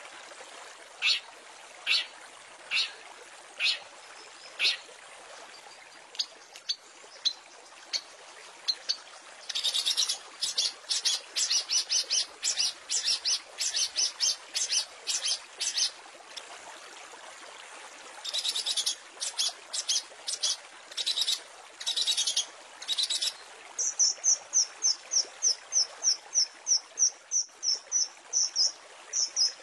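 Long-tailed shrike (cendet) song from a bird-training 'masteran' recording: sharp single high calls spaced about a second apart, then rapid bursts of chattering, and near the end a fast, even series of high notes about four a second. Running water trickles steadily underneath.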